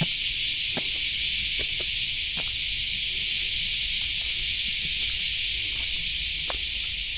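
Steady chorus of insects, an even high-pitched hiss with no breaks, with faint footsteps knocking underneath at an irregular walking pace.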